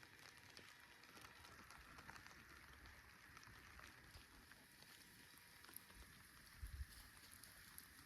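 Near silence: faint room tone with scattered light ticks and a brief low thump about two thirds of the way in.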